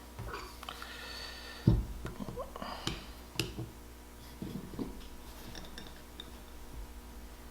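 Small metal carburetor parts and hand tools clinking and tapping, with a short squeaky scrape in the first second or so and one sharp knock just before two seconds in, then scattered lighter clicks.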